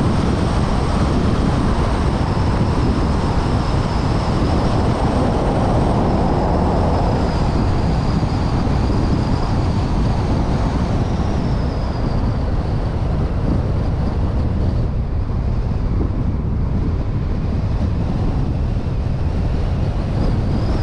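A vehicle driving along a mountain pass road, heard through a suction-mounted GoPro: wind rushing over the microphone, with road and engine noise underneath. It is steady throughout and eases a little in the second half.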